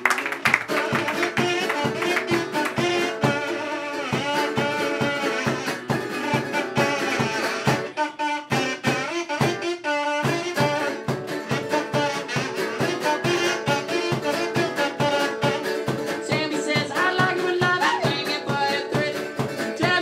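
Band music playing, with a steady drumbeat of about three strikes a second under sustained instrumental notes.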